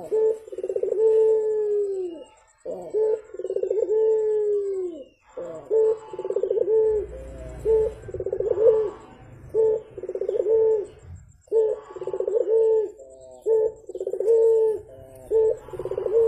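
Barbary dove (burung puter) cooing over and over in low, rolling, throaty coos. The first few coos are long, and from about five seconds in they come shorter and quicker.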